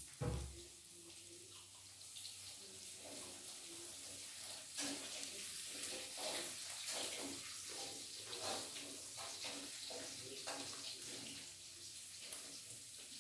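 Jengkol (dogfruit) frying in hot oil in a wok, a steady sizzle. From about five seconds in, a spatula scrapes and taps in the wok as the pieces are stirred. There is a dull thump right at the start.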